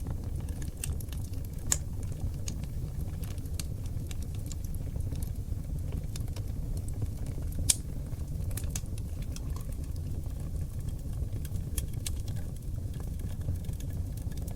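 Oak log fire burning in a fireplace: a steady low rumble of flames with scattered crackles and pops, the two sharpest pops about 2 seconds in and about 8 seconds in.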